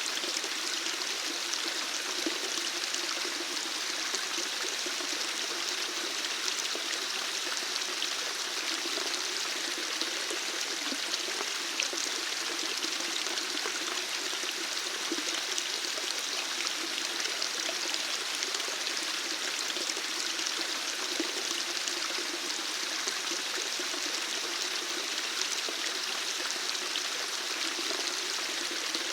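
Running water flowing steadily, an even rushing hiss with small splashes that does not change.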